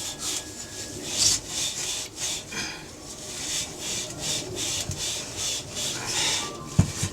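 A cloth being rubbed over a part to clean it: a run of irregular scrubbing strokes, with a couple of knocks near the end.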